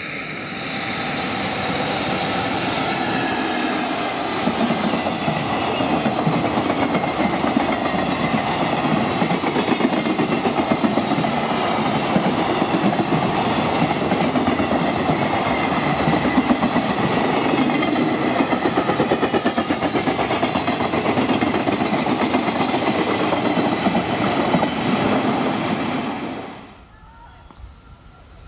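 Long freight train passing through the station at speed, its wheels clattering rhythmically over the rail joints, the sound cutting off suddenly about 26 seconds in as the last wagon goes by.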